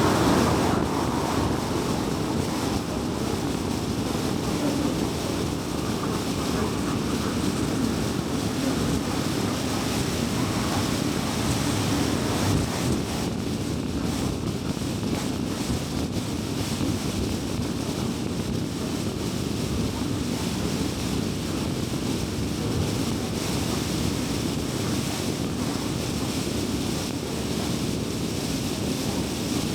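Steady road noise of a car cruising on a highway: a low rumble of tyres and engine with a faint hiss above it, easing slightly in the first second.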